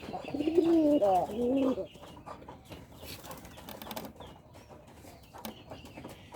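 Desi domestic pigeon cooing: one wavering coo phrase lasting about two seconds. It is followed by a quieter stretch with faint clicks.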